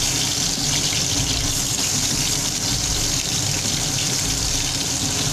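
Katla fish-head pieces frying in hot mustard oil in a kadai: a steady, loud sizzle.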